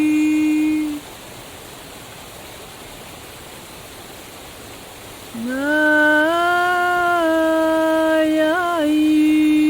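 Vocal toning: a held "o" tone ends about a second in, leaving only a steady hiss. Around five seconds in a voice slides up in pitch into a long held "ha-ya" vowel, then near the end settles into a steady "o" tone.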